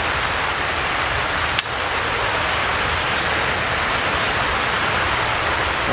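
Steady hiss of rain falling on the high tunnel's plastic film roof. There is a single sharp click about a second and a half in.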